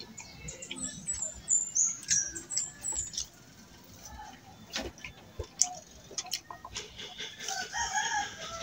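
A small bird chirping: a quick run of high-pitched, falling chirps in the first three seconds. A few sharp clicks follow in the middle, and a lower, longer calling comes near the end.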